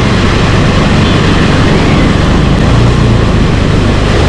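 A motor vehicle running steadily on the move, under heavy wind noise on the microphone; a low engine hum swells about three seconds in.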